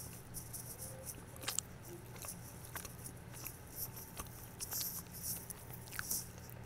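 Quiet chewing with wet mouth clicks and smacks from someone eating an almond butter and jelly sandwich and licking her fingers.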